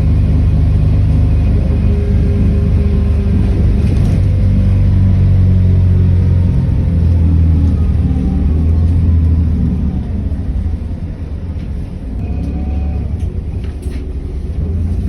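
City bus running under way, heard from on board: a steady low engine and road rumble that drops in level about ten seconds in.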